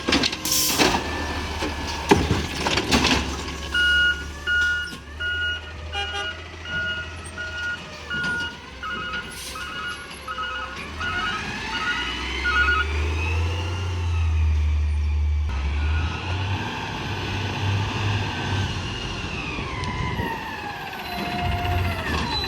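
Peterbilt 320 garbage truck with an Amrep body, its diesel engine revving up and then falling back, with a few loud knocks in the first three seconds. A backup alarm beeps about twice a second for several seconds in the middle.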